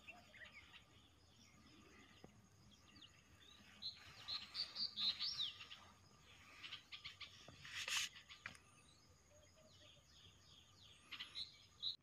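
Wild birds chirping faintly. A cluster of quick chirps comes about four to five seconds in, and thin rising-and-falling whistles come later, with a brief rustle about eight seconds in.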